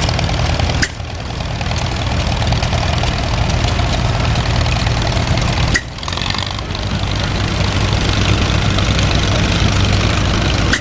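Antique farm tractor engine running steadily at low speed, with two sudden brief breaks in the sound about one second and six seconds in.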